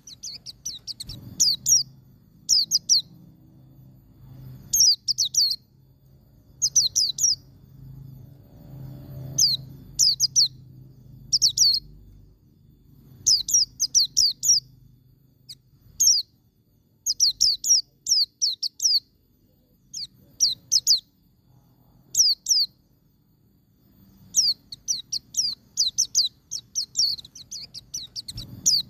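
White-eye (pleci) singing in the 'ngalas' style: short bursts of rapid, thin, high notes, each note falling in pitch, repeated again and again with brief pauses between bursts.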